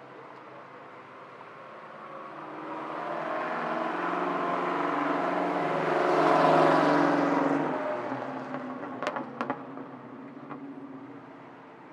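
A vintage straight-eight-engined car driving past: its engine note builds for several seconds, is loudest about six seconds in, then fades away. A couple of seconds after it passes there are two sharp cracks close together.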